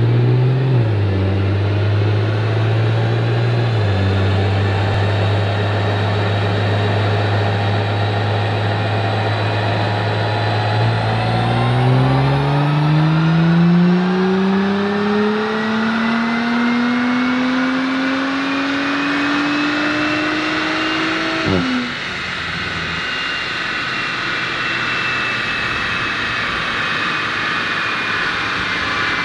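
2018 Audi S5 B9's turbocharged V6 on its stock exhaust, running on a chassis dyno. It holds a steady low note with two shifts early on, then makes a full-throttle pull that rises in pitch for about ten seconds and cuts off suddenly. After the lift-off a high whine slowly falls in pitch as it coasts down.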